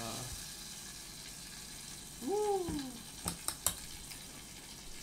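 Egg-dipped bread frying in butter on high heat in a small electric cooking pot, sizzling steadily. A short hum from a voice comes a couple of seconds in, and three sharp clicks about three and a half seconds in.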